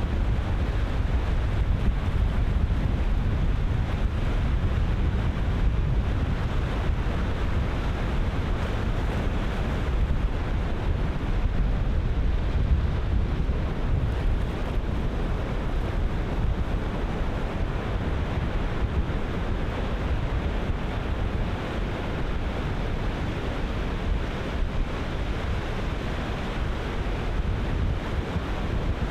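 Ocean surf breaking in a continuous wash, mixed with wind buffeting the microphone as a steady low rumble.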